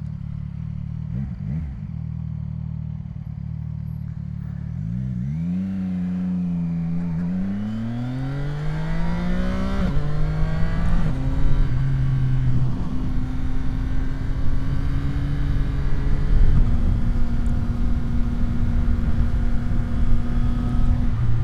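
CFMOTO 675 SR-R's three-cylinder engine running at low revs, then accelerating from about five seconds in with a rising note. Near ten seconds there is an upshift, and after that the engine holds a steady note at cruising speed.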